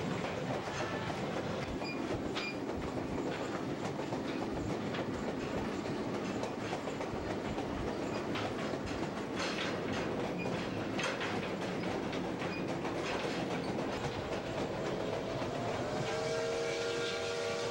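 Passenger train rolling along, heard from aboard a coach: a steady rumble with the clickety-clack of wheels over rail joints. Near the end the locomotive sounds a long whistle of several notes, its pitch sagging slightly.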